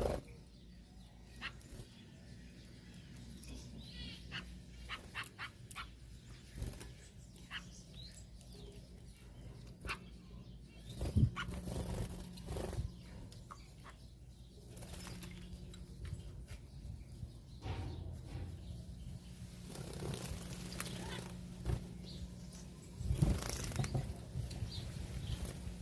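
Small cage birds bathing: scattered short splashes and wing flutters in the water, with louder bursts near the middle and near the end, over a low steady hum.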